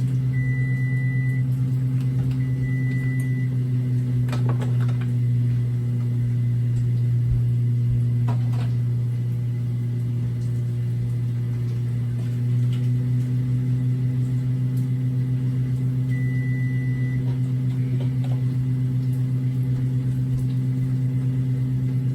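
Kitchen appliance motor humming steadily, a low, slightly pulsing hum, with a few light clicks and a faint high tone that comes and goes.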